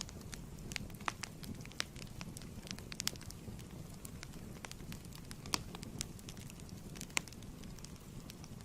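Wood fire crackling in a fireplace: a steady low rumble of flames with irregular sharp pops and snaps, the loudest about three, five and a half and seven seconds in.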